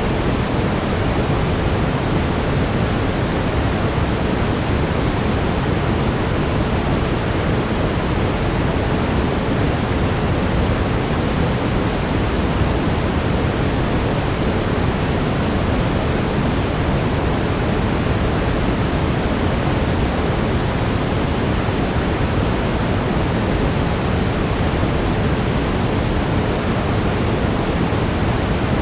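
Steady brown noise: an even, deep rushing hiss, heavier in the low end, that does not change.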